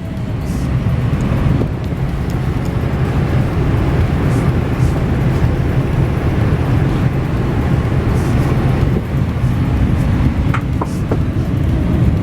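Steady low rumble and roar heard inside the cabin of a Boeing 787 Dreamliner, with a few faint clicks near the end.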